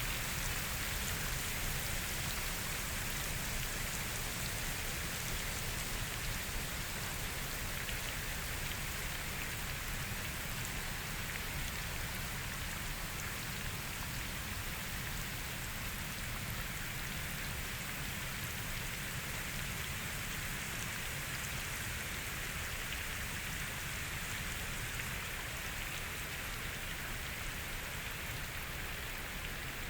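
Steady rain falling on forest foliage, a dense even patter of drops without pause.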